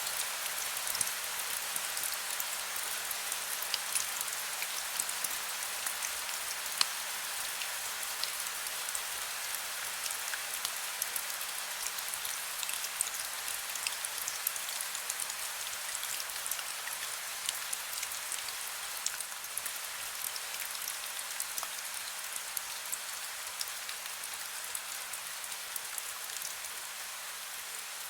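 Heavy rain falling steadily: a dense, even hiss with many sharp clicks of individual drops hitting a surface.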